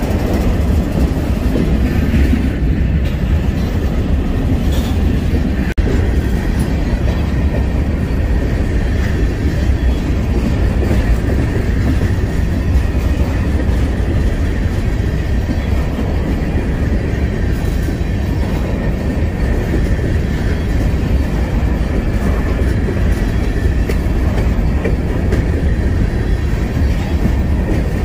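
Freight train cars rolling past at close range: a steady, loud rumble of steel wheels on rail with clacking over the rail joints and a faint high wheel squeal.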